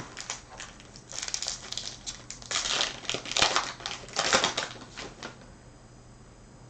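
Foil wrapper of a trading card pack being torn open and crinkled: a run of crackly bursts that stops about two thirds of the way through.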